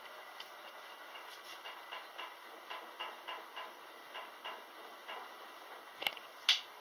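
Kelvinator K605 top-loading washing machine running mid-cycle: a steady faint hiss with light, irregular ticking about three times a second, then two sharper clicks about half a second apart near the end.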